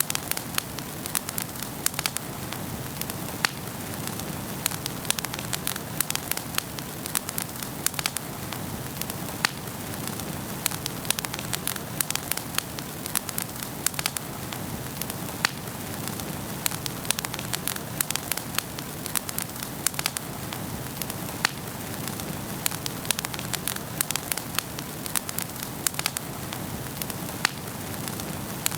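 Wood fire in a fireplace crackling, with many sharp irregular pops over a steady hiss of the flames.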